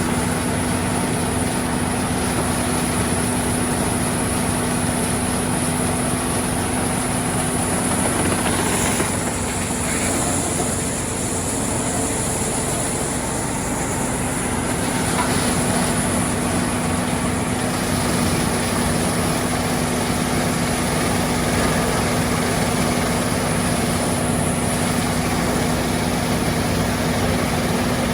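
An engine of heavy equipment running steadily at a constant speed, with an even hum that holds the same pitch throughout.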